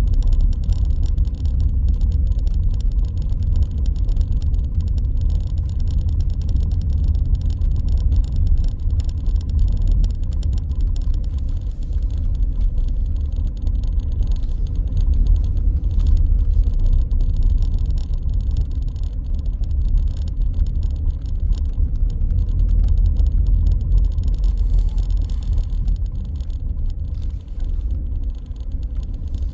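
Car driving through city streets: a steady low rumble of road and engine noise, easing slightly near the end.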